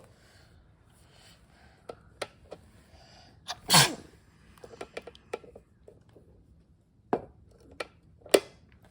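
A single short, sharp sneeze about four seconds in, with its pitch dropping quickly, among a few brief clicks and taps.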